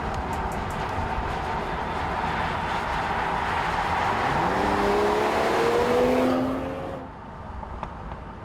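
Mercedes-AMG CLS 53's turbocharged inline-six running under way with road noise. About four seconds in the engine pulls harder and its pitch rises for a couple of seconds, then the sound drops away suddenly near the end.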